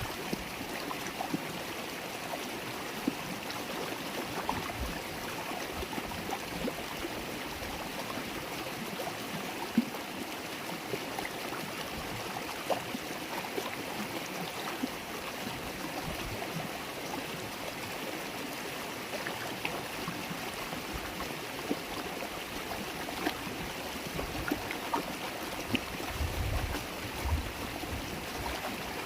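River water babbling and gurgling steadily over stones, with many small splashes and drips throughout.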